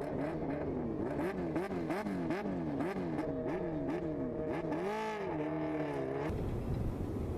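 A high-performance engine revving up and down in quick repeated sweeps, about twice a second. About five seconds in, the pitch swells and falls once. A little after six seconds it gives way to a steady rushing roar.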